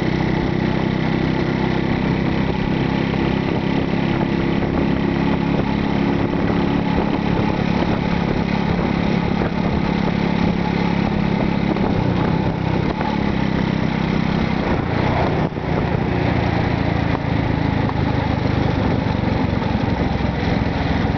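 Small motorcycle-taxi engine running steadily through the ride, its pitch shifting slightly about twelve seconds in.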